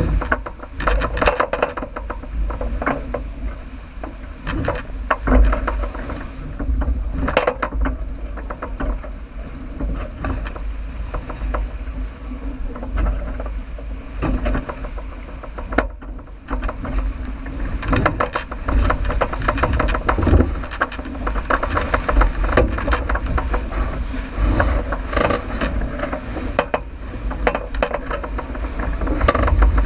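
J80 sailboat running downwind under sail: wind buffeting the microphone over the rush of water, with frequent knocks and rattles throughout.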